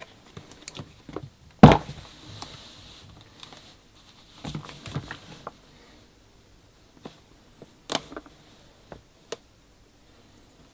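A product box and its packaging being handled: scattered taps and knocks, one sharp thump about two seconds in followed by a brief rustle, and further clusters of knocks later on.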